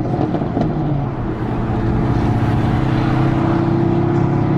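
Dodge Charger Scat Pack's 392 HEMI V8 engine running under way, its note settling into a steady drone after the first second or two.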